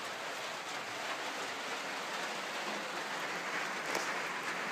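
Steady rain falling, an even hiss of drops, with one brief knock about four seconds in.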